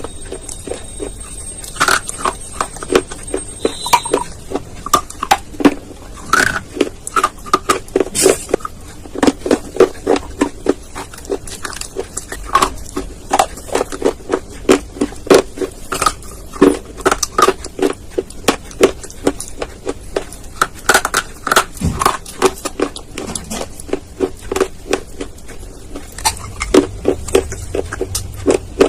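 Close-miked chewing of dry clay: a continuous run of crisp crunches, several a second, with brief pauses between bites.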